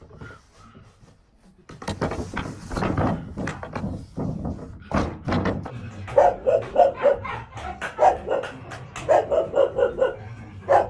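A dog barking in quick runs of short barks from about six seconds in, over thuds and clatter that start about two seconds in.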